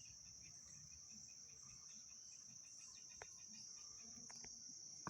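Near silence, with a faint, steady high-pitched insect chirring, like crickets, and a few faint clicks.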